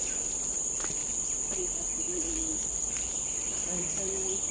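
Steady high-pitched chorus of forest insects, one unbroken buzzing drone, with a few faint clicks beneath it.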